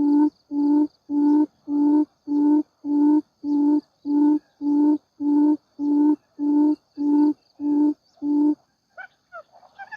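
Wild quail calling: a long series of low hooting notes, evenly spaced at almost two a second, that stops near the end and gives way to a few short chirps. A steady high insect drone sounds underneath.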